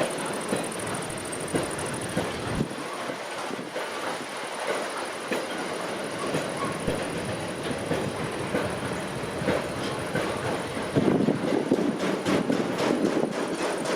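Train running past on the track, its wheels rumbling and rattling over the rails, growing louder about eleven seconds in, with quick regular clicks near the end.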